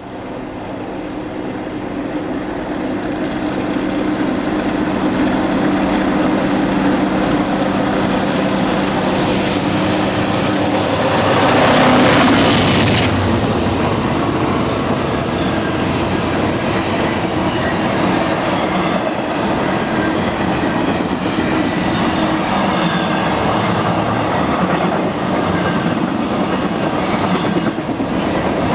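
Diesel locomotives of a freight train approach with a steady engine drone that grows louder, peaking as they pass about twelve seconds in. After that comes a steady rumble and clatter of double-stack container cars rolling by on the rails.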